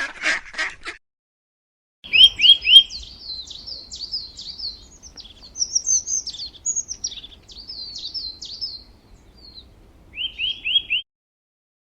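A small songbird chirping: quick falling chirps in groups of three, then a run of varied high notes for several seconds, and a last burst of four falling chirps near the end. The first second holds the end of another animal's rapid calls, then a brief silence.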